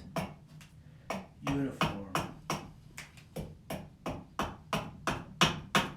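Axe chopping a wooden turning blank to rough it down, in quick repeated blows, about two or three a second.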